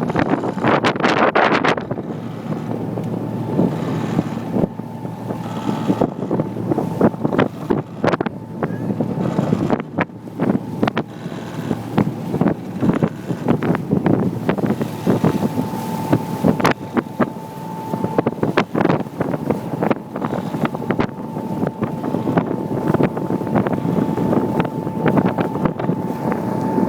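Motorboat running under way: a steady engine and water rumble, with wind buffeting the microphone and many short knocks. A steady high whine joins about halfway through.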